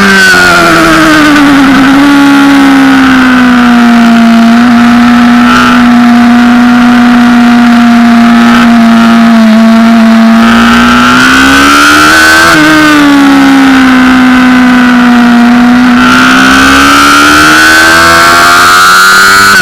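2007 Honda CBR600RR's inline-four engine running at high revs on track. Its pitch climbs at the start and holds steady for several seconds, rises and drops about twelve seconds in, then climbs again near the end.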